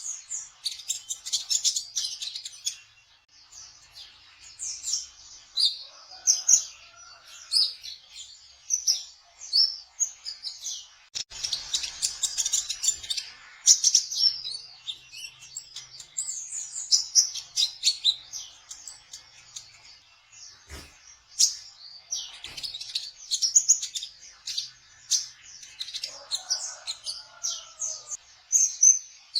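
Kolibri ninja sunbird singing a fast, high twittering song in its rapid 'trotol' style, with continuous bouts of quick chirps and trills. A few lower sliding notes come in twice, and there is one brief click partway through.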